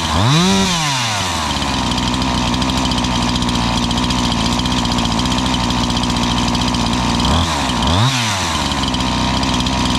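Freshly rebuilt Husqvarna 345 two-stroke chainsaw running at idle, revved up and back down once just after the start and twice in quick succession near the end; it is running decently after the rebuild.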